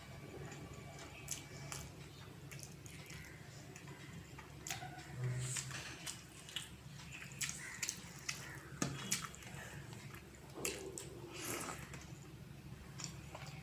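A person eating a meal of rice with dal and fish curry: scattered soft clicks and small wet smacks and squelches, over a low steady hum.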